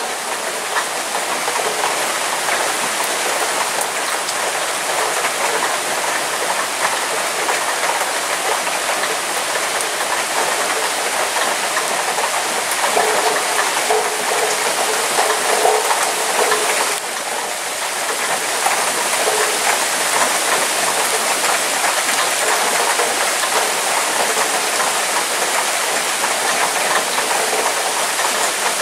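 Heavy downpour of rain pouring steadily, a loud even hiss with no thunder.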